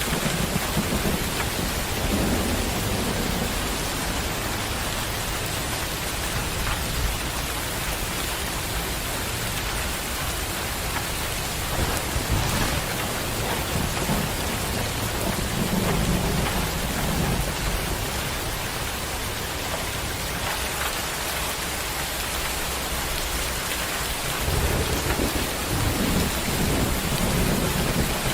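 Steady heavy rain falling, with low thunder rumbling in slow swells several times, longest near the end.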